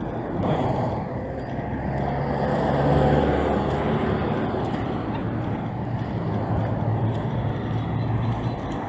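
Street traffic: a motor vehicle's engine running close by, loudest about three seconds in, over the general noise of a city street.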